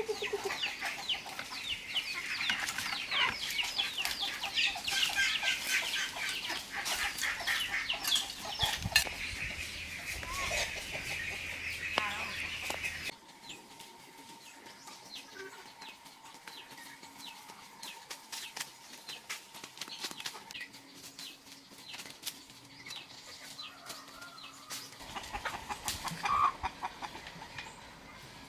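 A flock of chickens clucking and chirping, with many short calls overlapping. The sound drops suddenly about halfway through to fewer, quieter calls.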